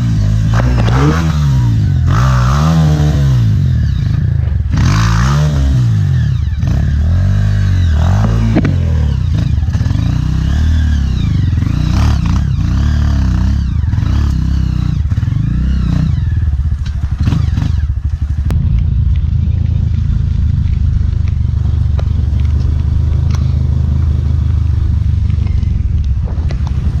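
Honda CRF trail bike's single-cylinder four-stroke engine, recorded on board, revving up and down again and again under the throttle for the first sixteen seconds or so, then holding a steadier note. Clattering from the bike runs through it.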